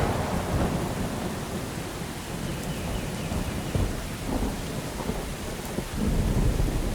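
Steady rain falling, with thunder rumbling low underneath. The rumble swells louder about six seconds in.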